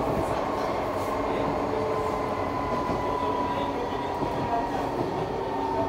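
Electric passenger train running along the track, heard from inside the carriage: a steady rumble of wheels on rails, with a faint steady whine near the top.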